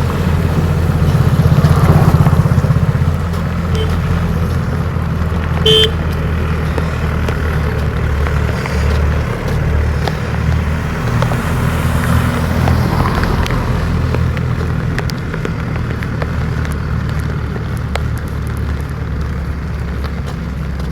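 Steady low engine-like rumble, with one short high beep about six seconds in.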